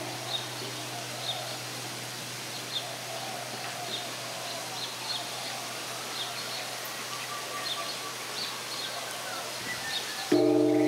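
Outdoor ambience: short, high bird chirps repeat about once a second over a steady hiss. Near the end, a sustained low chord of background music comes in suddenly and louder.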